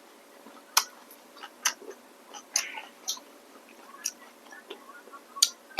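Close-miked eating: irregular wet mouth clicks and smacks from chewing rice noodles, a dozen or so short sharp ticks spread unevenly, with a louder one near the end.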